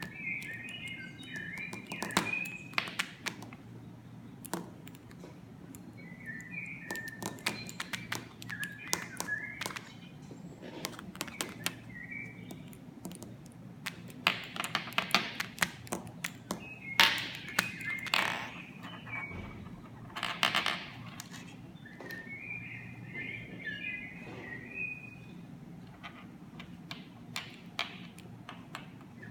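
A small bird chirping in short bursts of quick high notes, several bouts through the stretch, mixed with many sharp taps and clicks, over a steady low hum.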